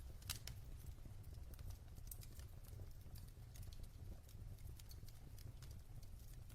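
Wood fire burning in a fireplace: a low steady rumble of the flames with scattered sharp crackles and pops of the burning logs, the loudest pop about a third of a second in.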